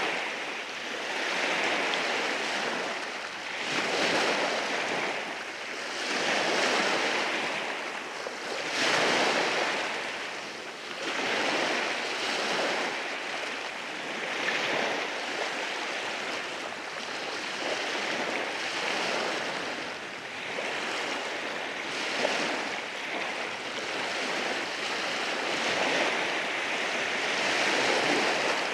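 Waves washing in over rocks at the shore, a continuous rushing surf that swells and eases every few seconds.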